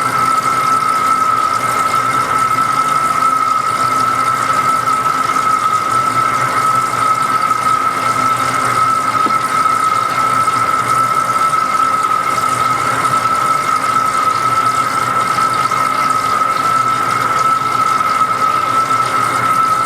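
Lathe turning a large pot-bearing part, running steadily with a constant high-pitched squeal over an even hiss.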